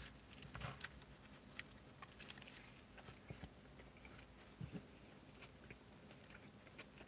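A man biting into a large stacked beef burger and chewing it: faint, scattered clicks and smacks of chewing.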